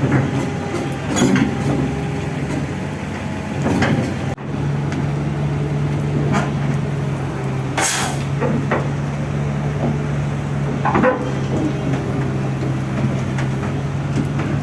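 Heavy diesel engine running steadily, with several loud metallic clanks of steel machinery and a short burst of hiss about eight seconds in.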